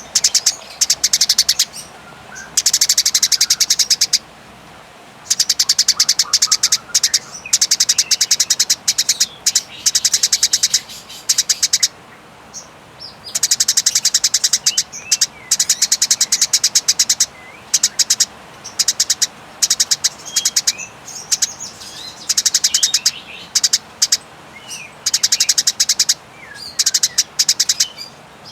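Eurasian tree sparrow in aggressive 'fighting' chatter: rapid, high rattling trains of chirps lasting a few seconds each, broken by short pauses filled with softer single chirps.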